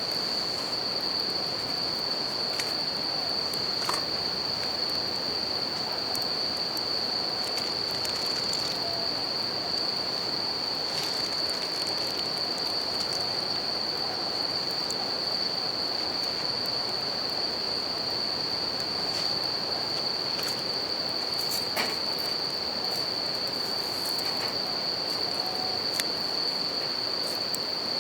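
Bell crickets singing in a steady high-pitched ring that never lets up, over the even rush of a river, with occasional sharp crackles from a campfire.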